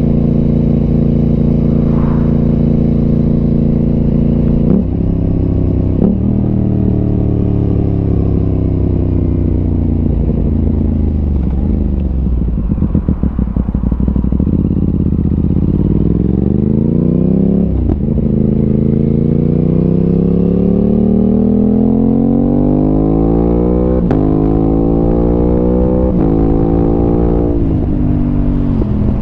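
Aprilia RS 660's parallel-twin engine through an SC Project exhaust, heard while riding. It holds a steady speed, then drops two gears in quick succession and runs down in revs with a brief pulsing burble. It then pulls up through the gears, the revs rising and cutting back at each upshift, before easing off near the end.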